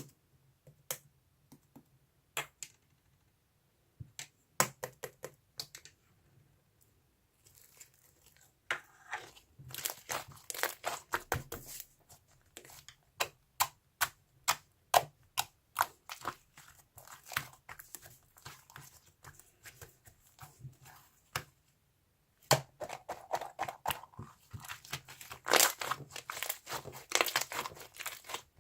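Close-up crinkling and tearing handling noises, with many sharp clicks and taps. They come in two denser spells, about a third of the way in and again near the end.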